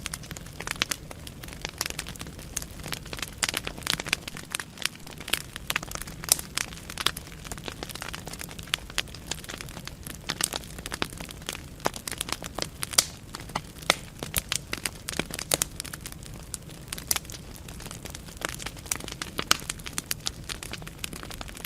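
Wood fire burning in a fireplace: logs crackling and popping in quick irregular clicks over a steady low rumble of flame.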